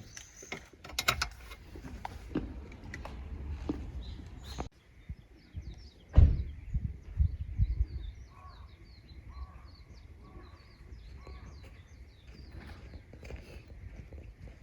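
Outdoor rural ambience with many short, repeated chirping animal calls, and a heavy thump about six seconds in.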